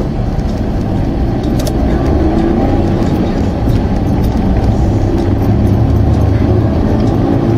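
A car's engine and road noise while driving, a steady low hum that grows gradually louder.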